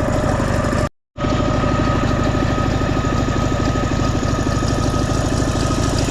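Motorcycle engine idling steadily with even, rapid firing pulses; the sound drops out completely for a moment about a second in, then resumes unchanged.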